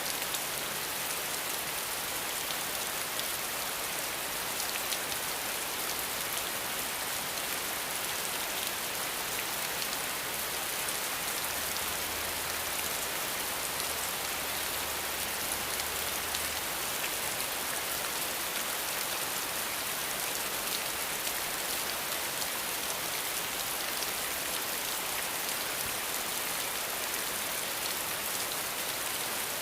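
Steady rain falling and pattering on surfaces, an even hiss with close individual drops and no thunder.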